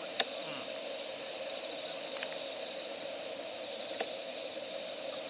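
Wood campfire burning with a few sharp crackles, about three in all, over a steady hiss and a constant high-pitched whine.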